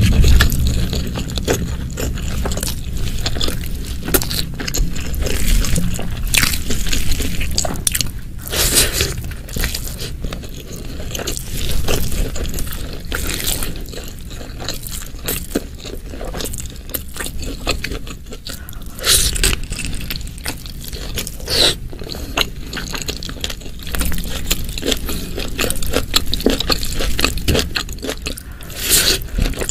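Close-miked eating: chewing and biting through a meal of spicy shredded chicken, sate koyor and rice, with quick crunches and clicks and a few louder bites.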